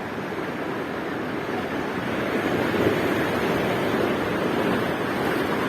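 Ocean surf washing on the shore: a steady rushing noise that swells a little about two seconds in.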